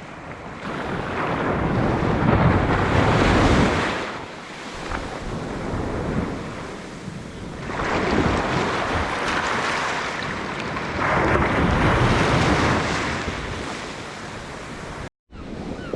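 Sea waves breaking on the beach, the surf swelling and fading three times, with wind buffeting the microphone. The sound cuts out abruptly for a moment near the end.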